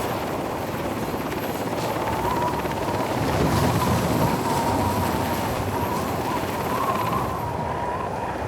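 Sea King rescue helicopter running steadily: a dense low rotor chop under a steady mid-pitched turbine whine, swelling slightly in loudness partway through.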